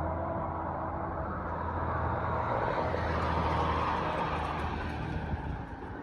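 Street traffic: a motor vehicle's engine running with a steady low hum, and road noise that swells as a vehicle passes about halfway through, then fades toward the end.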